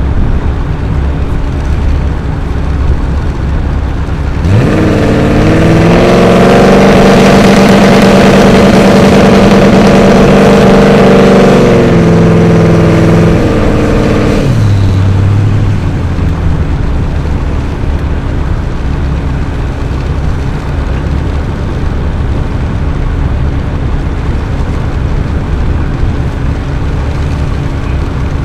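Twin-turbocharged Sunbeam Tiger launching on a drag strip. About four seconds in, the engine note rises sharply at full throttle, then holds, stepping down a couple of times. It falls away about ten seconds later as the car runs down the track. A steady low rumble of wind and background fills the rest.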